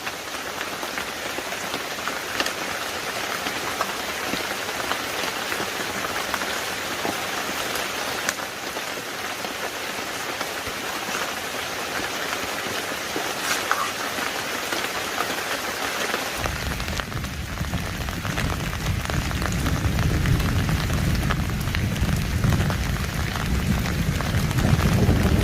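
Heavy rain falling steadily, a dense hiss of drops with scattered sharper drop hits. About two-thirds of the way in, a deep low rumble comes in suddenly and stays, getting louder toward the end.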